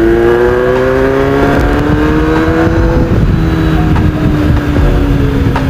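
Kawasaki Z800 inline-four with a racing exhaust, pulling under acceleration: its pitch rises steadily for about three seconds, then eases slowly down as the throttle rolls off.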